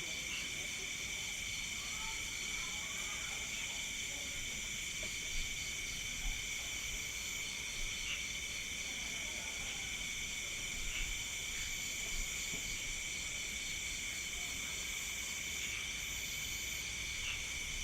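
Night insect chorus, mostly crickets: several steady high-pitched trills layered together, one with an even pulsing chirp. A few faint soft knocks come through about five and six seconds in.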